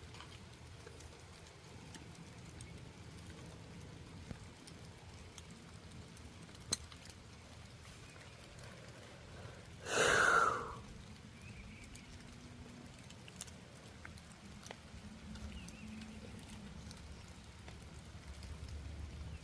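Light rain pattering, with a few faint ticks. About halfway through comes a single short, loud breathy burst.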